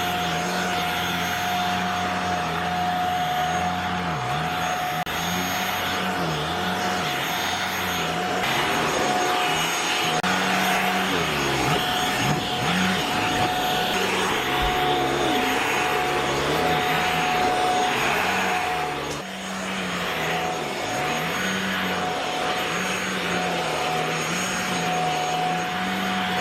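JPHYLL corded handheld mattress vacuum running on a couch: a steady motor whir with a high whine, the motor's pitch sagging briefly every second or two as it works over the cushions. The level drops for a moment about 19 seconds in.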